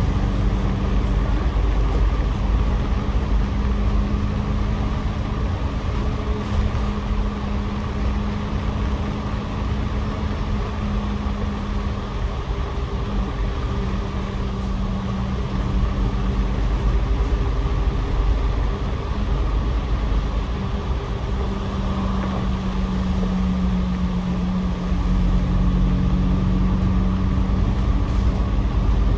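Double-decker bus running on the road as heard on board from the upper deck: a steady low engine and road rumble with a hum that fades out and comes back a couple of times. The rumble grows a little louder near the end.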